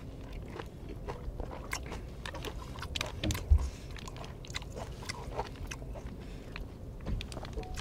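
Close-up chewing of a mouthful of raw hairtail: soft, wet mouth sounds with many small clicks and crackles. There is one low thump a little over three seconds in.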